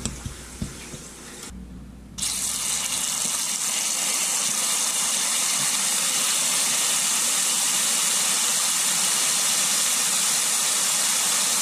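Salt pork and salt beef sizzling in hot vegetable oil in a stainless steel frying pan: a steady, loud frying sizzle that comes in suddenly about two seconds in. Before it, a few light clicks of pieces dropped into the pan.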